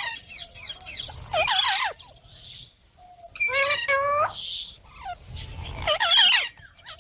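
Green parrot calling: several bursts of loud, chattering squawks with rapidly rising and falling pitch, separated by short pauses.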